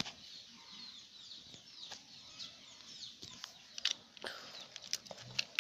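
Birds chirping in the background, a steady run of many short falling chirps, with a few sharp clicks of plastic toy trucks being handled near the middle and end.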